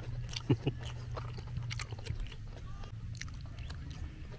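Close-up wet chewing and mouth clicks of people eating pieces of cooked squid by hand, many small irregular smacks over a steady low hum.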